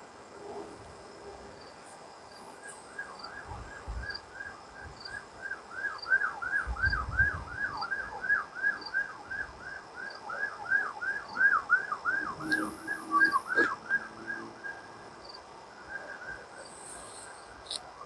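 A bird calling a long, fast series of whistled down-slurred notes, about four a second, that starts a few seconds in and stops near the end. Faint insect chirping runs behind it.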